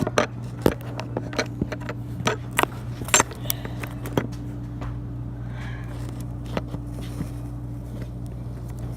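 A series of sharp clicks and knocks, many in the first four seconds and sparse after, over a steady low hum.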